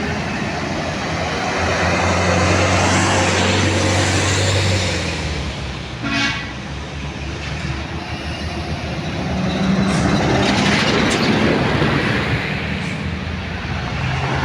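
Heavy truck engine running hard, louder for a few seconds near the start and again later, with a short horn toot about six seconds in.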